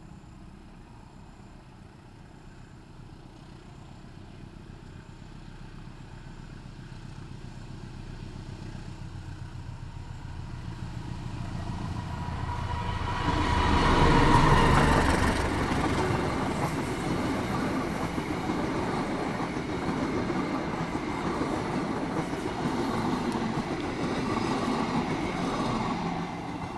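Diesel locomotive hauling a passenger train approaches and passes close by, growing steadily louder to a peak about halfway through as the locomotive goes by. The passenger coaches then roll past on the rails with an even, sustained running noise.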